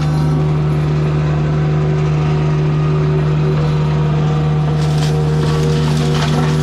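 Heavy forestry mulching machine running steadily under load, a constant engine and drum hum with a few short bursts of grinding noise near the end.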